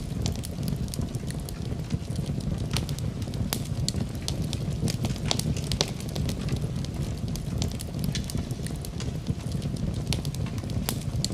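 Wood fire crackling in a fireplace: a steady low sound of burning under frequent sharp, irregular pops and snaps.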